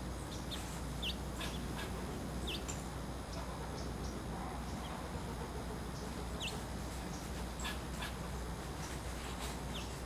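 Small songbirds giving several short, high chirps scattered through, over a steady outdoor background hiss.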